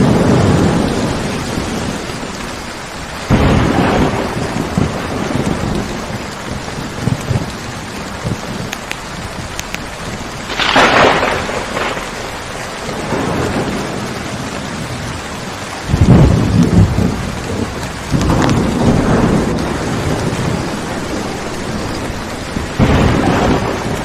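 Steady rainfall with thunder rumbling again and again through it: sudden swells about three seconds in, near the middle, and several more in the second half, the loudest about two-thirds of the way through.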